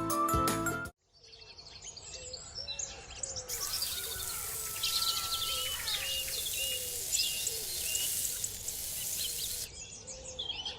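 Birds chirping, many short overlapping calls over a faint outdoor hiss, starting after a brief dropout about a second in.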